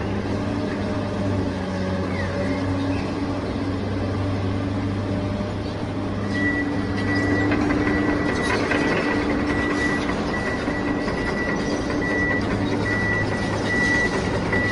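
A motor running steadily with an even hum. From about six seconds in, a high tone pulses on and off over it.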